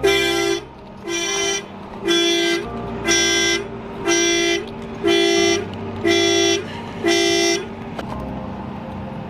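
Cadillac CTS coupe's car alarm sounding its horn in even honks about once a second, stopping about seven and a half seconds in: the alarm set off as power reaches the locked car.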